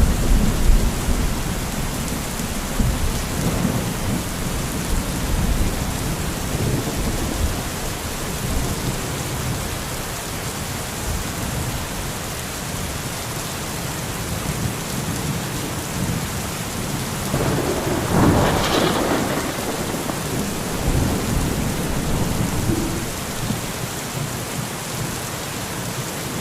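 Steady heavy rain with rolling thunder. The thunder rumbles low at the start, and about 18 seconds in a sharper, louder thunderclap rolls off over a couple of seconds.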